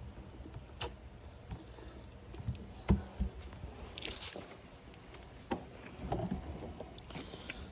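Newborn puppies shuffling and scuffing on their bedding, soft rustles and squishy sounds. A single sharp knock comes about three seconds in, and a brief hiss follows a second later.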